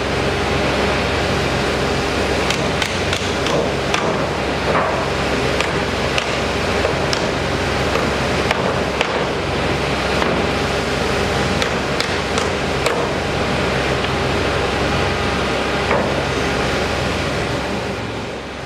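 Construction-site noise: a steady machinery hum with irregular sharp knocks like hammer blows on the work. It dies away near the end.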